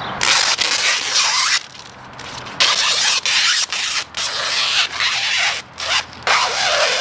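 Vinyl wrap film being worked by hand: a run of hissing, scraping rub strokes, each about half a second to a second long, with short breaks between them.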